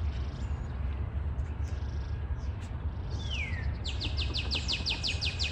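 Wild birds calling: a single whistled note that slides down in pitch about three seconds in, then a fast even run of short downslurred notes, about seven a second, from about four seconds in. A steady low rumble lies underneath throughout.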